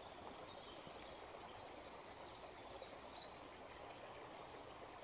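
A small songbird singing: from about a second and a half in, a quick run of about eight high, falling notes, then a few high whistled phrases. Under it, a faint steady rush of flowing water.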